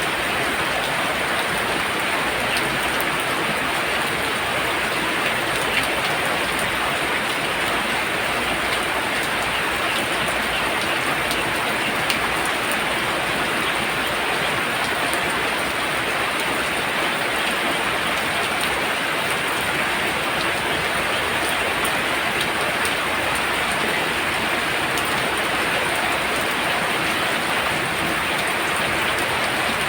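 Very heavy rain falling steadily: a dense, even hiss with no let-up.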